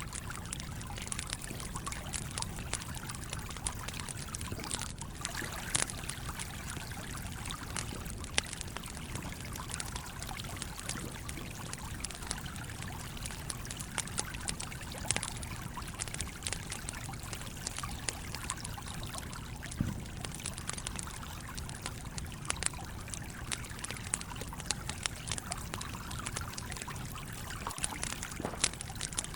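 A stream flowing steadily, with a campfire crackling and popping over it in irregular sharp snaps.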